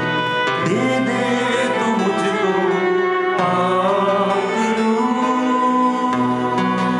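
Live worship music: sustained instrumental chords with singing over them.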